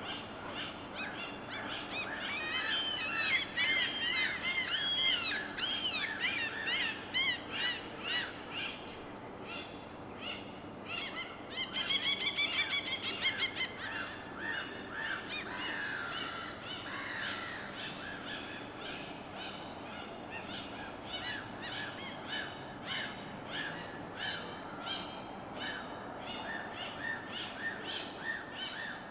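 Birds calling and chirping over a steady wash of water: bursts of arching chirps in the first few seconds, a fast trill about halfway through, then repeated short calls.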